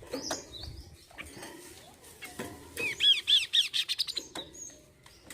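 Kaso-kaso bird singing: a short high call near the start, then about three seconds in a fast, loud run of about seven arched, down-slurred notes.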